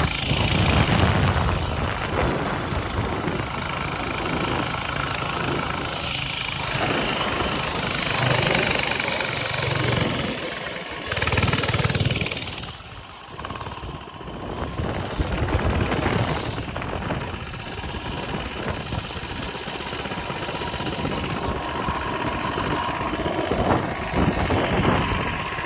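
Coleman mini bike's small engine running under way, its level rising and falling, with a short drop about halfway through.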